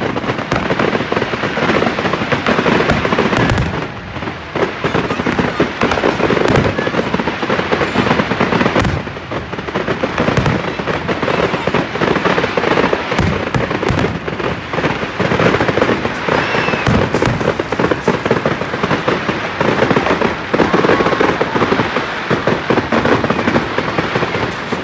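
Fireworks going off in quick succession: a dense, continuous run of bangs and crackling, with a few faint short whistles.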